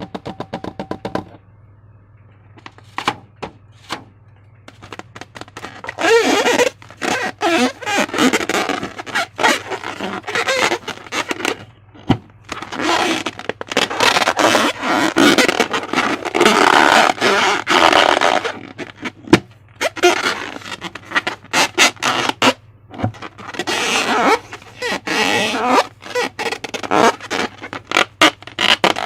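Slime being squeezed and kneaded by hand: dense bursts of wet crackling and squelching clicks in clumps of a few seconds, after a quieter stretch of scattered clicks at the start.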